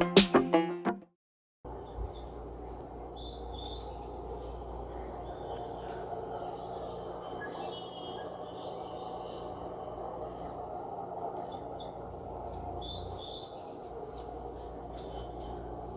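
Music cuts off about a second in; after a moment of silence, birds chirp and call repeatedly over a steady background hum.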